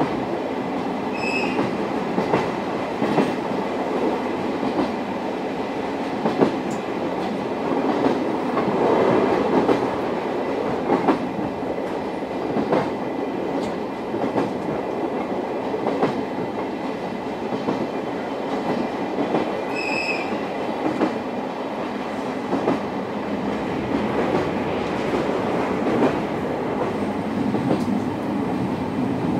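Running noise inside a Suhafu 42 old-type passenger coach: a steady rumble of steel wheels on rail, with irregular clicks from rail joints. A short high-pitched tone sounds twice, about a second in and again about twenty seconds in.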